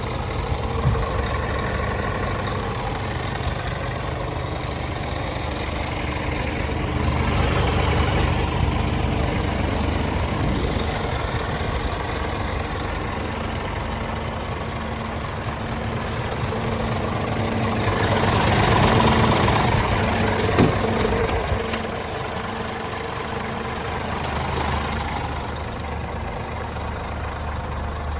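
Scania R410 truck's 13-litre inline-six diesel idling steadily, swelling louder twice, with a sharp click about two thirds of the way through.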